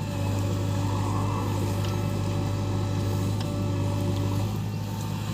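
JCB 3DX backhoe loader's diesel engine running steadily with a constant low hum.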